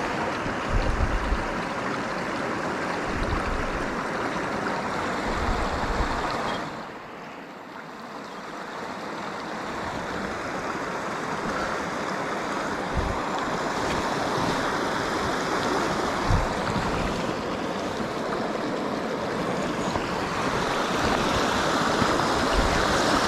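Mountain stream rushing, a steady noise of flowing water. It drops suddenly about seven seconds in, then builds back up gradually, with a few brief low thumps on the microphone.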